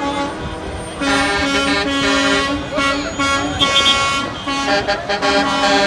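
Trucks honking their horns in long held blasts at several pitches, some overlapping, with music mixed in.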